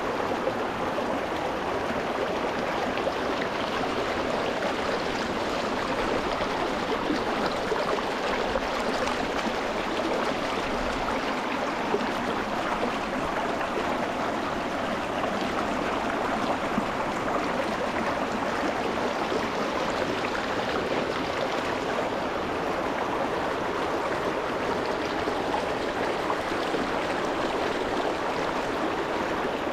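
Shallow rocky mountain stream running over stones, a steady gurgling and splashing of flowing water.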